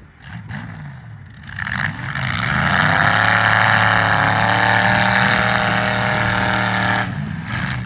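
Demolition derby car engine revving: it climbs in pitch about two seconds in, holds at high revs for several seconds, then drops off near the end.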